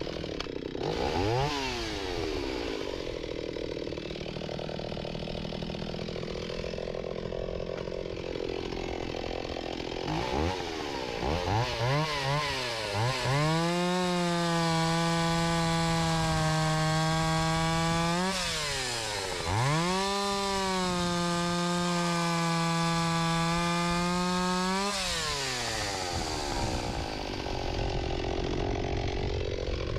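Stihl 028 Wood Boss two-stroke chainsaw running with its freshly welded muffler: several quick throttle blips, then two long spells at full throttle of about four and five seconds, with a drop in revs between them, before it falls back near the end.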